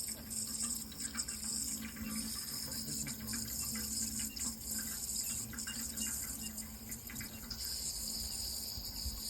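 Water running steadily with fine trickling and splashing, over a continuous high trill of crickets and a faint low hum.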